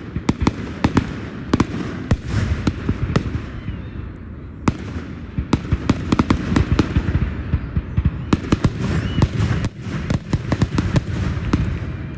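Fireworks finale: a rapid, irregular barrage of sharp bangs over a continuous low rumble.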